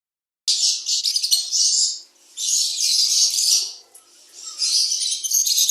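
Budgerigars chattering, a dense, high, fast twittering that starts abruptly about half a second in. It comes in three stretches of about a second and a half each, with short lulls between them.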